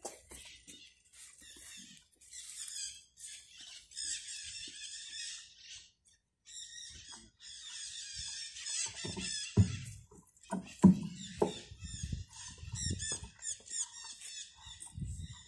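Birds singing, with strings of repeated high chirping phrases throughout. About ten seconds in comes a cluster of low thumps and knocks, the loudest sounds here.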